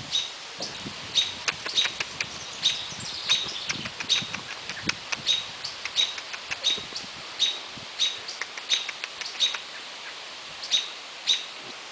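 American robin giving short, sharp alarm calls over and over, about three every two seconds: scolding and mobbing a great horned owl near it.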